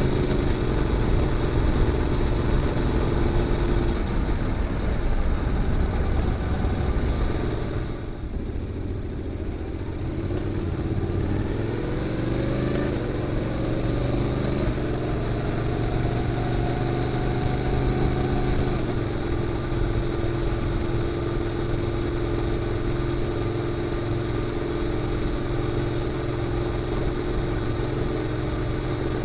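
Honda NC750X's parallel-twin engine through a GPR aftermarket muffler, heard from the bike while riding. The engine runs steadily, eases off about eight seconds in, then rises in pitch as it pulls again. The note steps down with a gear change a little past the middle and settles into a steady cruise.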